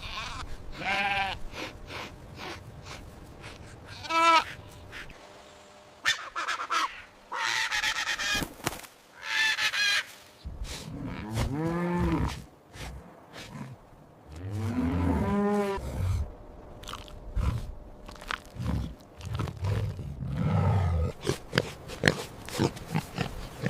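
A series of recorded farm animal calls, one after another: short high wavering calls, then two long arching lower calls midway, then a run of short low grunts near the end.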